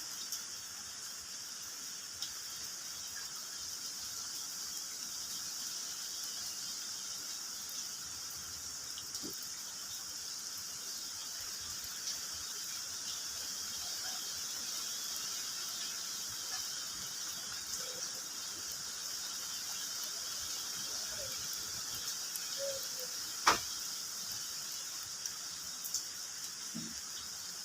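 Steady high-pitched outdoor hiss with a few faint chirps, and one sharp click about 23 seconds in.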